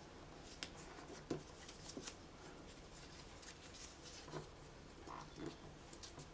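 Paper being handled and folded: faint rustles and a few light creasing taps.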